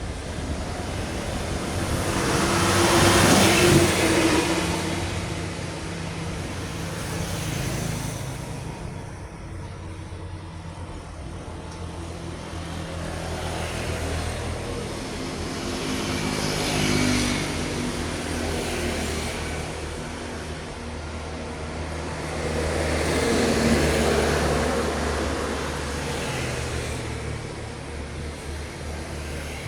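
Highway traffic: vehicles passing one after another over a steady low engine drone. Each pass swells and fades, and the loudest goes by about three to four seconds in.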